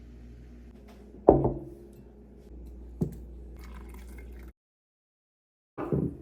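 A loud sharp knock about a second in, ringing briefly, and a lighter knock a couple of seconds later, over a low steady hum; after a short dead-silent gap another brief clatter comes near the end.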